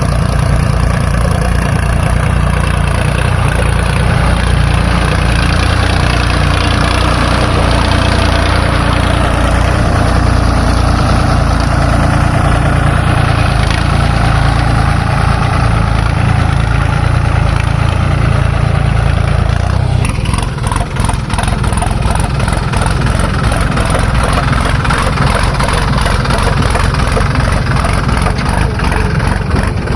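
Diesel engine of heavy machinery running loudly and steadily, its pitch rising and falling briefly; about twenty seconds in the sound changes to an even, pulsing beat.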